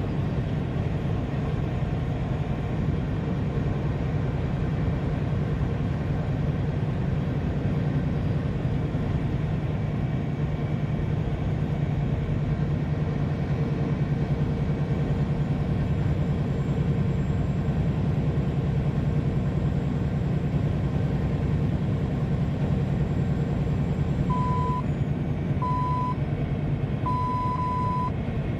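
Steady low drone of a vehicle travelling on the highway. Near the end comes a row of electronic beeps at one pitch: two short, then two longer.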